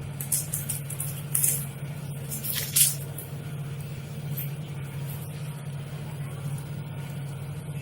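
Packaging being handled: three short crinkling, rustling noises in the first three seconds, the loudest a sharp crackle near the third second, over a steady low hum.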